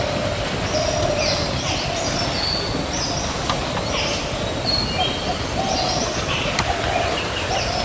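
Several wild birds calling over a steady background hiss: a run of short, low hooting notes, with higher chirps and whistles in between.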